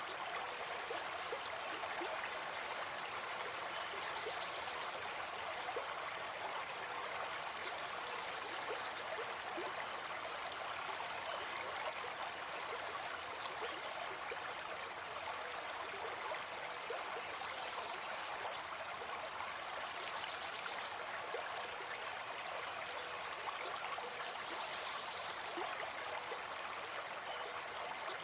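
Gentle forest stream flowing steadily: a continuous, even rush of running water.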